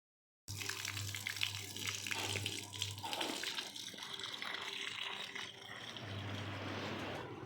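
Water pouring and splashing steadily, cutting in suddenly about half a second in, with a low hum underneath that drops out for a few seconds in the middle.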